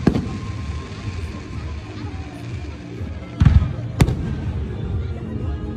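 Aerial fireworks shells bursting with loud booms: one right at the start, then two more about three and a half and four seconds in, over a continuous low rumble of the display.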